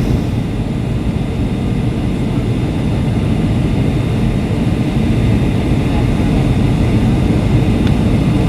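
Steady rumble of engines and rushing air inside the cabin of a Boeing 757-200 airliner on its landing approach. It grows slightly louder from about halfway through.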